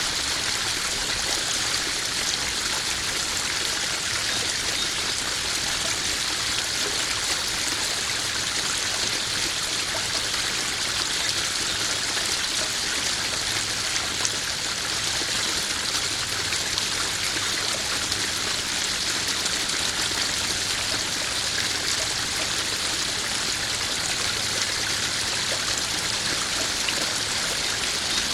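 Koi pond waterfall: water splashing and trickling steadily over rocks into the pond.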